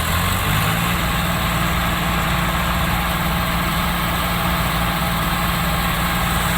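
Heavy diesel vehicle engine running steadily at a constant speed, with no revving.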